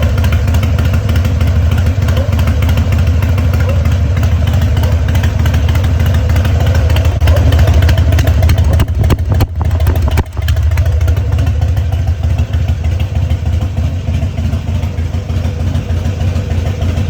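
Exhaust of a 2004 Harley-Davidson Sportster 1200's carbureted Evolution V-twin through Motor Stage Narrow Slash mufflers, running at a steady idle. The loudness dips briefly about halfway through.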